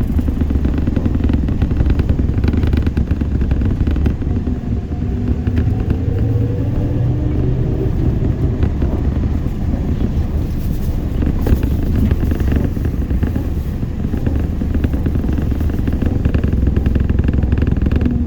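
ZiU-682G trolleybus under way: the electric traction motor's whine rises and falls in pitch with speed over a steady low rumble from the road, with scattered rattles and clicks from the body.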